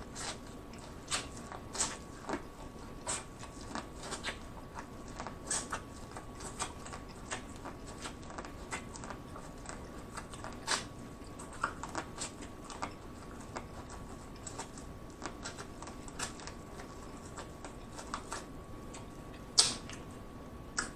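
Close-miked eating of boiled corn on the cob: kernels bitten off the cob and chewed, making irregular small crunches and wet mouth clicks, with a louder bite near the end.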